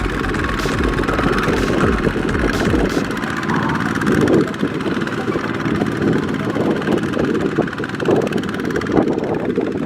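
Small walking-tractor engine running, with a deep low throb for about the first three seconds that then fades, leaving a steady mechanical clatter.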